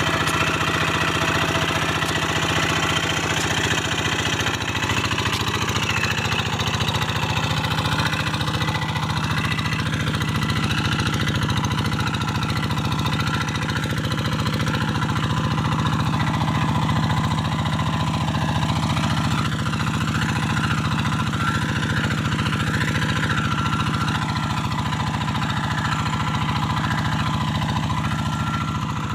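Kubota single-cylinder diesel engine of a Quick G1000 Boxer hand tractor running steadily.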